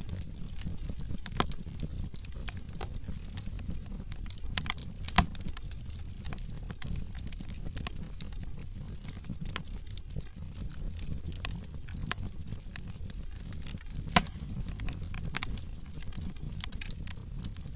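Wood fire burning in a fireplace: a steady low rumble of flames with irregular sharp crackles and pops from the burning logs, two louder pops about five and fourteen seconds in.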